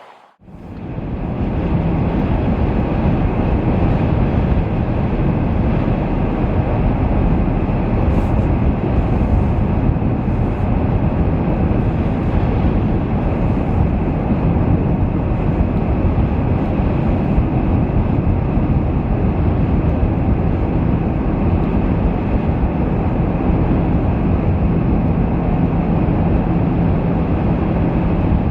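Steady low rumble of road and wind noise from a vehicle driving at highway speed, coming in suddenly right at the start and then holding level.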